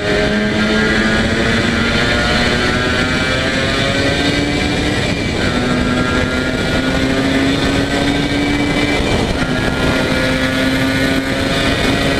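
Yamaha TZR250 two-stroke parallel-twin engine pulling hard, its pitch climbing steadily and dropping back twice, about five and nine seconds in, as it shifts up through the gears.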